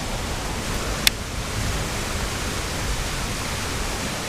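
Steady rushing water from a small creek waterfall, with one sharp click about a second in.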